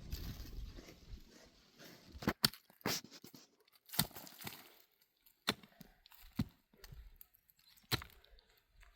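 Irregular sharp clicks and knocks with short tearing or scraping noises between quiet gaps, as of materials being handled by hand.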